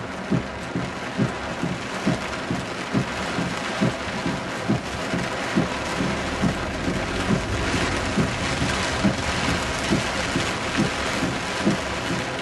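Heavy rain falling steadily, with a regular low knocking, about two or three knocks a second, running under it.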